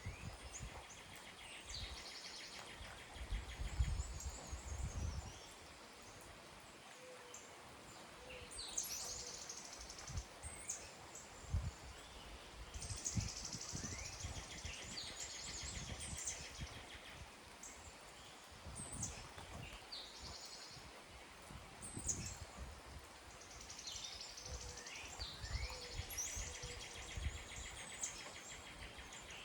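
Several songbirds singing and calling over one another: short chirps, quick upward and downward sweeps, and fast buzzy trills. Low rumbles come and go underneath, the strongest a few seconds in.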